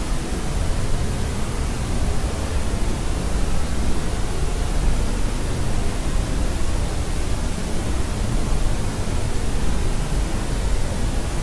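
Steady sleep noise, a deep even rush heaviest in the low end, like pink noise, with no crying or other sounds in it.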